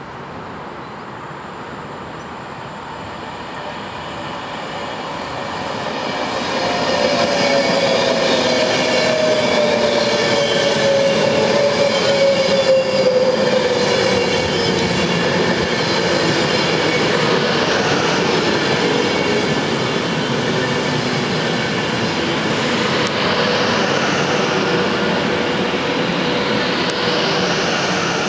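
Class 390 Pendolino electric train running through the platform. It grows louder as it approaches over the first several seconds, then gives a steady rush of wheel and rail noise as the coaches pass close by. A whine falls slowly in pitch during the first half of the pass.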